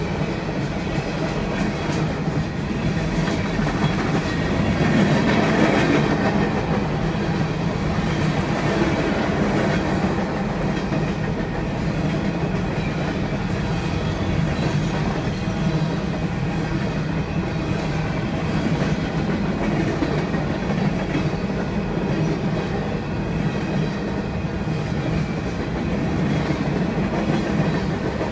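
Freight train cars rolling steadily past a grade crossing, their steel wheels rumbling and clattering on the rails.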